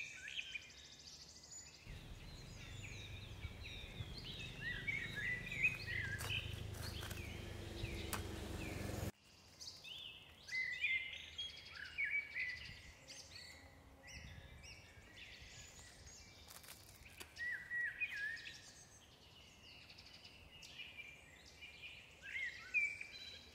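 Many birds chirping and calling over and over. For the first several seconds there is a low rumble beneath them, which cuts off suddenly about nine seconds in.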